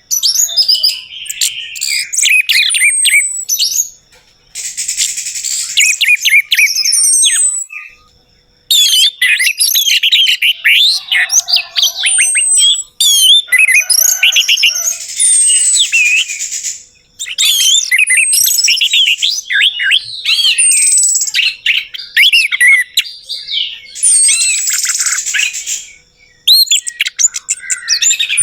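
Orange-headed thrush singing: long runs of rapid, varied whistled and slurred notes, broken by brief pauses about four times.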